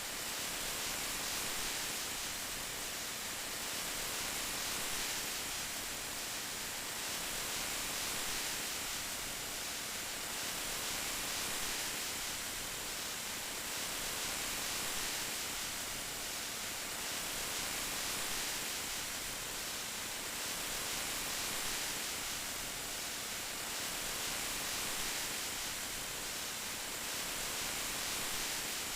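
Steady rain: an even hiss that swells and eases gently about every two seconds.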